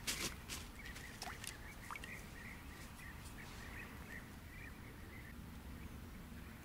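A few faint clicks, then a bird calling in a run of short, evenly spaced chirps, about three a second, for several seconds.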